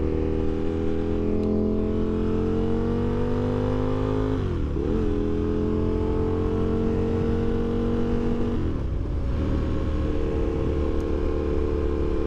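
Aprilia RSV1000's V-twin engine pulling under load, its note rising steadily. The note drops sharply twice, about four and a half seconds in and again around nine seconds, as with gear changes, then runs at an even pitch over a steady low rumble of wind and road.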